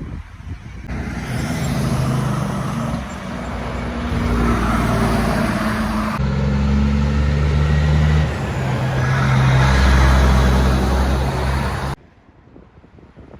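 An engine running, its low hum shifting in pitch a few times, then cutting off suddenly near the end.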